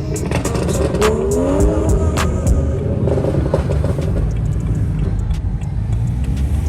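Car engine rumble with a pitch glide rising about a second in, as of revving or a tyre squeal, over background music with a steady ticking beat in the first couple of seconds.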